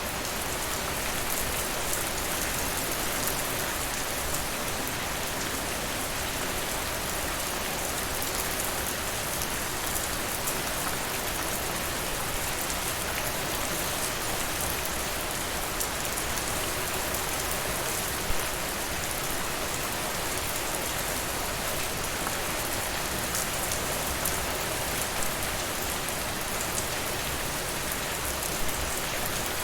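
Steady rain falling, mixed with the small crackles of a wood fire in a fireplace, with a sharper pop a little past halfway and another near the end.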